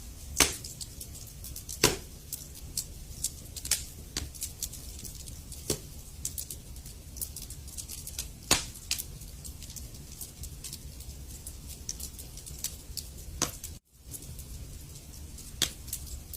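Wood fire crackling in a fireplace: irregular sharp pops and snaps over a low, steady rumble of the flames, with a few louder pops. The sound cuts out for an instant near the end and then carries on.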